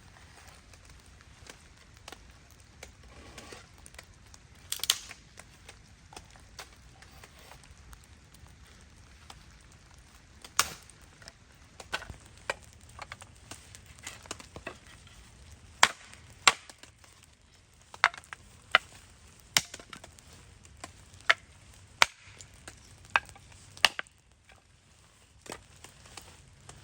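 Firewood being broken up: a string of sharp, irregular wooden knocks and cracks, some a second or more apart and some in quick pairs, over the faint steady hiss of rain.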